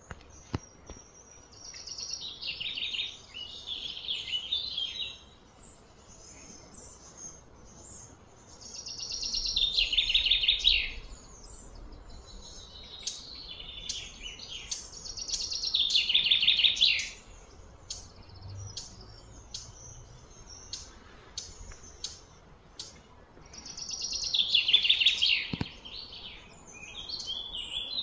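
Birds singing: a rapid, high trilling phrase that swells and stops, repeated four times several seconds apart, with short chirps scattered between.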